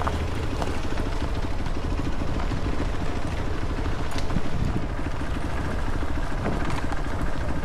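Motorcycle running steadily while riding, a low rumble under wind noise on the microphone.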